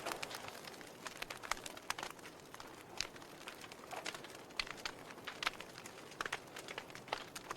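Wood logs burning in a fireplace, crackling with irregular sharp pops over a soft steady hiss.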